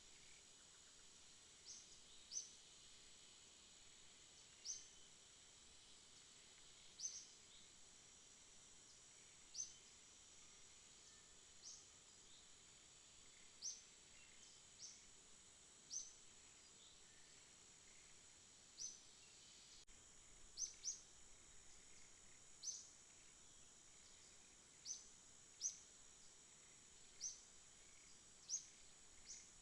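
Night ambience: a faint, steady, high-pitched insect drone with short, sharp high chirps every second or two at an uneven pace.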